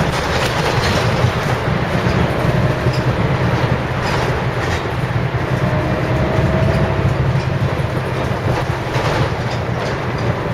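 Scania L113 CRL single-decker bus under way, its rear-mounted 11-litre six-cylinder diesel engine giving a steady low drone with loose rattles and clicks throughout.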